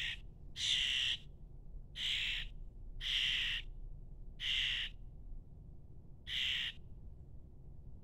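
A fledgling songbird giving six harsh, raspy calls, each about half a second long, repeated every second or so.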